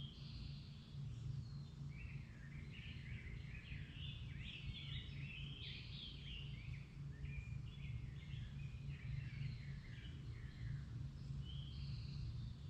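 Birds singing: a busy run of short chirping phrases, strongest in the middle, over a steady low rumble.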